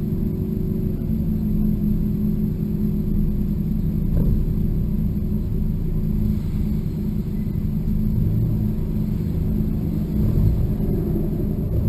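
Honda S2000's four-cylinder engine idling steadily, a low even rumble heard from the open-top cockpit.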